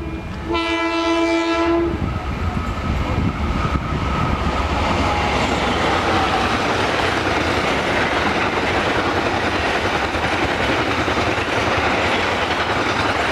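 Passing train: a single horn blast of about a second and a half, half a second in, then the steady rumble and rolling wheel noise of the train going by on the rails.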